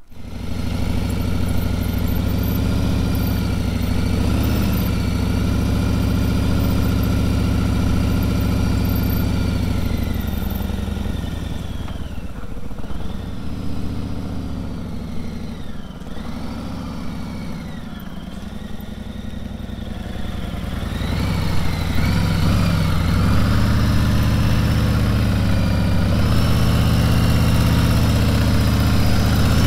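Harley-Davidson Road Glide CVO's V-twin engine running at low road speed, its pitch rising and falling a little with the throttle. It eases off through the middle and picks up again about two-thirds of the way through.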